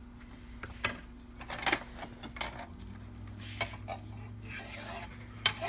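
Small metal mortise-lock part being worked flat with a hand tool: irregular sharp metal clicks and taps mixed with scraping and rubbing of metal on metal.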